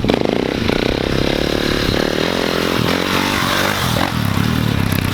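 Pit bike engine running and revving up and down.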